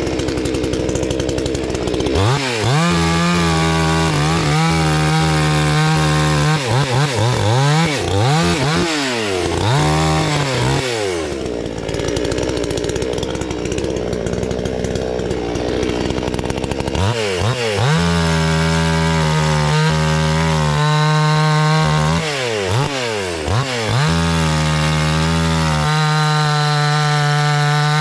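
Two-stroke gas chainsaw revving up and down in repeated throttle blips and held at full throttle while cutting wood. It drops back to a lower idle for several seconds in the middle, then revs and cuts again.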